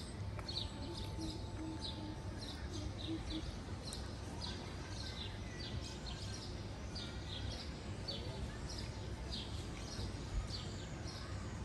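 A small bird chirping over and over in short high notes, about two to three a second, over a steady low outdoor rumble.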